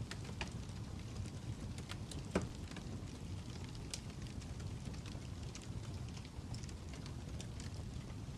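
Fire crackling: a steady low rumble with scattered sharp pops and snaps, the loudest about two and a half seconds in.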